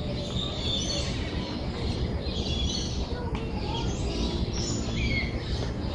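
Birds chirping and whistling in short, scattered high calls over a steady low-pitched background noise.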